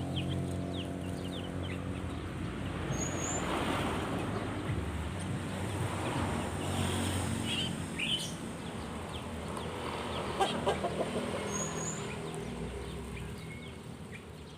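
Small birds chirping in short scattered calls, with a low engine drone fading out over the first couple of seconds.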